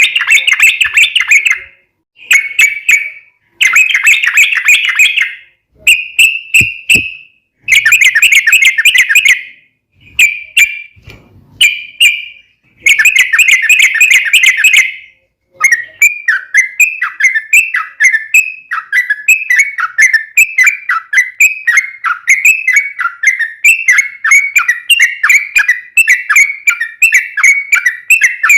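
Yellow-vented bulbul (trucuk) singing loudly. Its bubbly chattering phrases come one after another with brief pauses between them. About halfway through they give way to a long unbroken run of quick falling notes.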